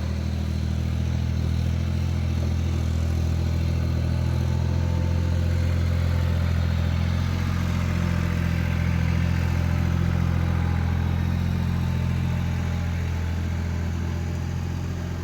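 Yanmar compact tractor's diesel engine running steadily, rising slightly in level around the middle before easing back.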